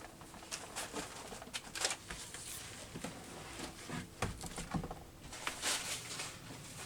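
Paper rustling with light taps as a small book is picked up and its pages handled, in scattered short rustles.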